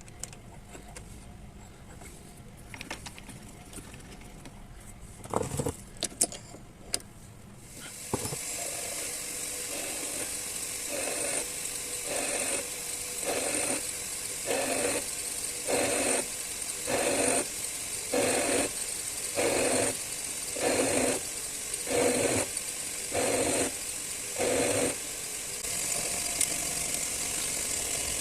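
Metal lathe starting up about a third of the way in and running steadily, with a regular series of short cutting bursts, about one a second.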